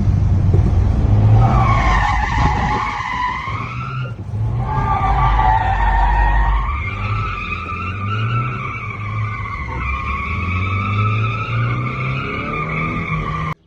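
Suzuki Carry mini truck drifting: long, wavering tyre squeal over its small engine revving up and down. The sound cuts off abruptly near the end.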